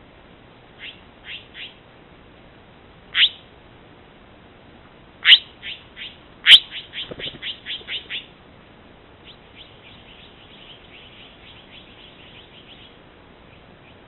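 Bird calls: short, sharp, downward-sweeping notes. A few come singly at first, then a quick run of about a dozen notes just past the middle, then a fainter, drawn-out run near the end.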